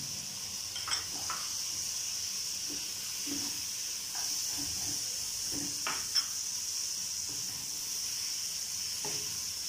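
Shredded cabbage and vegetables stir-frying in a hot non-stick wok, a steady sizzle, with a slotted plastic spatula scraping and knocking against the pan a few times as it is stirred in.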